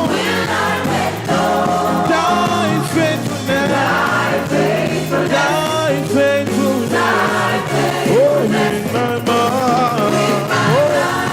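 Live gospel praise music: a lead singer and congregation singing over a band, with bending melodic vocal lines over a steady bass.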